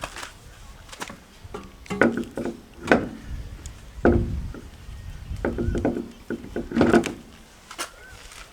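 A run of irregular knocks and clatter, sharp strikes coming every half second to a second, some with a short ringing tone.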